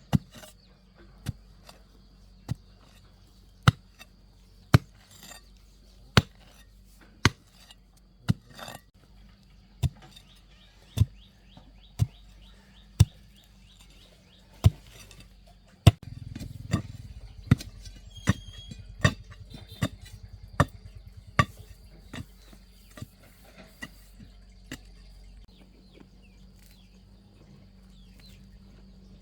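Repeated hard strikes at about one a second, each with a short ringing tail. About halfway through, a low rumble joins and the strikes come a little faster, then thin out near the end.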